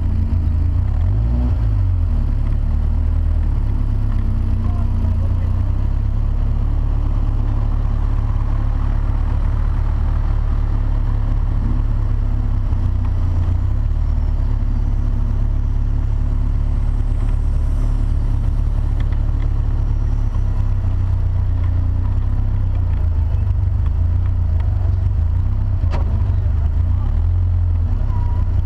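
Rhocar kit car's engine running steadily at low revs while the car drives slowly over grass, heard from on top of its bonnet as a deep, even rumble. A single sharp click sounds near the end.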